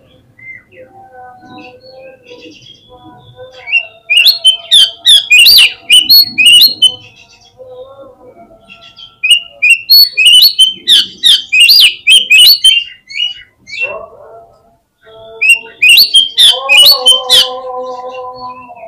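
Oriental magpie-robin (kacer) song used as a lure: three loud bursts of rapid, sharp, high chirping notes, separated by softer, lower held whistles.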